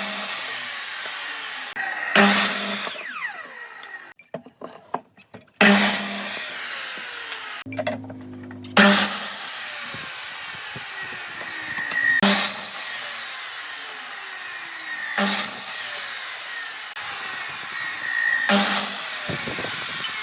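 Power tools working pallet wood, with loud bursts of cutting every two to three seconds and two brief pauses in the first half.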